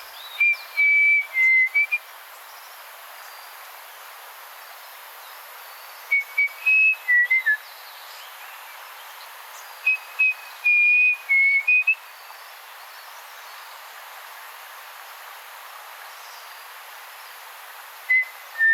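Clear whistling in four short bouts several seconds apart. Each bout is a few held notes at nearly the same high pitch, stepping slightly up and down, over a steady faint hiss of forest ambience.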